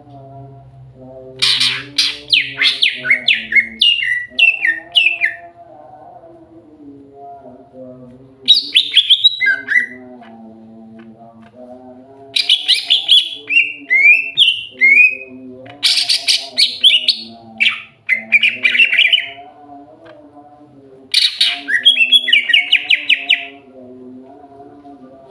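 Green leafbird (cucak hijau) singing in repeated loud bursts of quick, sweeping chirps of a few seconds each, with short pauses between. A steady, wavering lower tone runs underneath.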